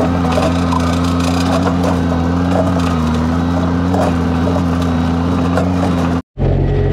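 Skid steer engine running steadily under load while its bucket crunches and scrapes through dirt. It cuts off abruptly about six seconds in, then the engine comes back at a slightly lower, different pitch.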